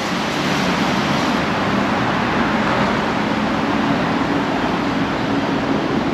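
Steady rushing background noise with a faint low hum underneath. It does not change or stop.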